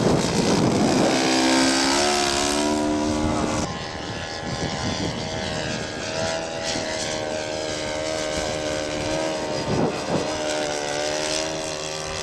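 Engine of a radio-controlled scale model airplane running in flight, its pitch wavering a little as it passes. Wind buffets the microphone, hardest in the first few seconds.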